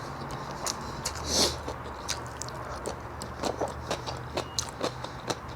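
Close-up eating sounds: chewing with many small irregular mouth and lip clicks, and a brief soft intake of breath about a second and a half in, over a faint low steady hum.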